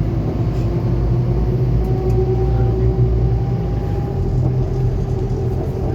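2021 Scania K280UB4 bus's five-cylinder diesel engine and drivetrain running under way, a steady low rumble with a faint whine that rises slightly in pitch partway through.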